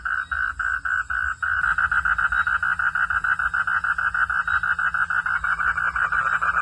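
Frogs calling in a rhythmic chorus of short, evenly repeated croaks, about five a second. About a second and a half in, more calls join and the pulsing becomes faster and denser.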